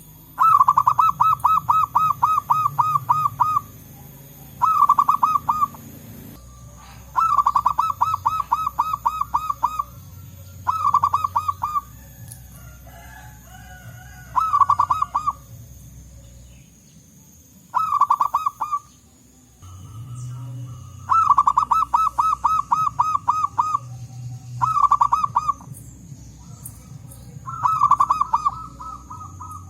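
Zebra doves singing: repeated runs of quick staccato cooing notes, about nine bursts, some short and some about three seconds long.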